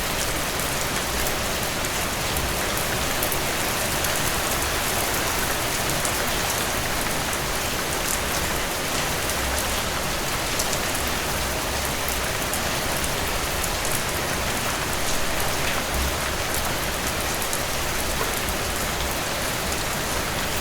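Heavy rain falling steadily: a dense, even hiss with scattered sharp ticks of individual drops striking a surface.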